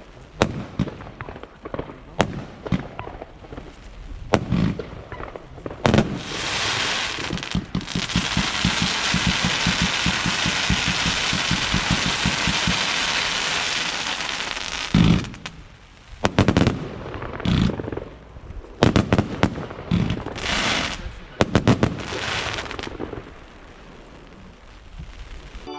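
Fireworks going off: sharp single bangs, then a long dense stretch of rapid crackling lasting about nine seconds, then more bangs and short crackling bursts that thin out near the end.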